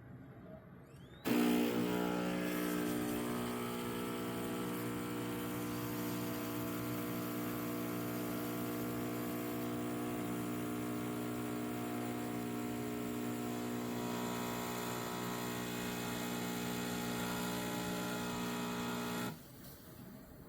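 Espresso machine's pump humming steadily as it runs, starting abruptly about a second in and cutting off shortly before the end, as when pulling a shot.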